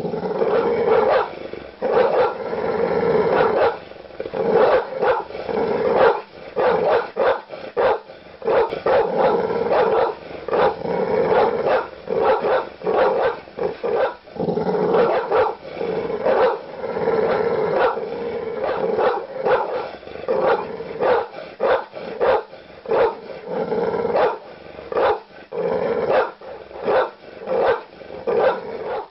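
Large dog barking aggressively in rapid, nearly unbroken volleys.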